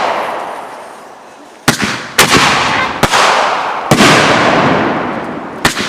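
Consumer fireworks going off in a string: five sharp bangs, the first about a second and a half in and the last near the end. Each bang trails off in a fading crackle.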